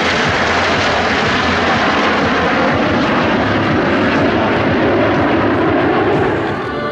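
Aircraft engine noise from an airplane flying a display: a loud, steady rushing sound that eases off slightly near the end.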